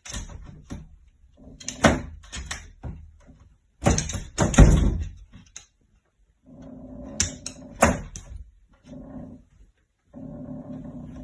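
A dog whimpering, among a run of sharp clicks and knocks; the loudest knock comes about four and a half seconds in.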